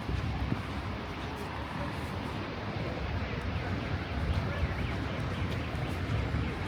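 Steady outdoor city street ambience, mostly a low rumble of traffic.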